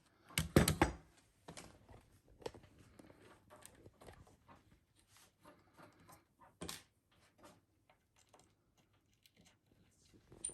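A few sharp knocks about half a second in, then scattered light clicks and taps as wooden parts and tools are handled on a workbench.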